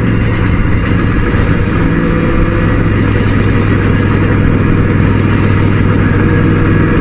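Motorcycle engine running at a steady cruising speed, heard from a riding motorcycle, with rushing wind noise.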